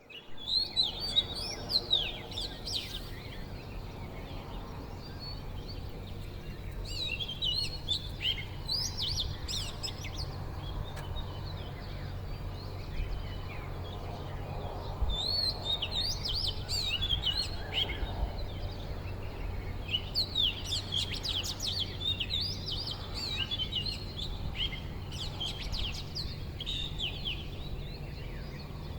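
Birds chirping and warbling in repeated bursts of quick high notes, over a steady low hum.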